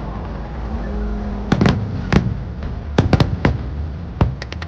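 Fireworks going off: about seven scattered loud bangs of bursting shells over a low rumble. Rapid crackling starts again near the end.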